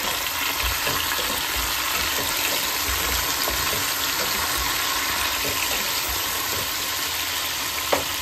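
Chicken pieces and chopped onion sizzling in oil in a frying pan: a steady hiss with light crackles. A spatula stirs the pieces partway through, and there is a short knock near the end.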